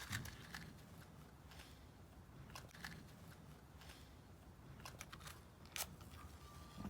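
Firewood burning in a Solo Stove Campfire fire pit, crackling faintly with scattered sharp pops and snaps.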